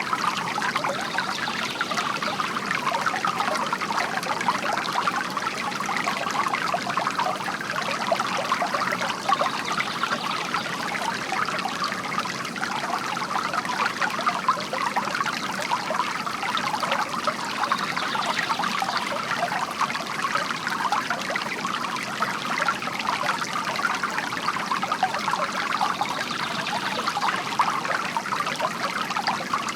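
Bamboo water fountain: water trickling from the spout and splashing steadily into the basin.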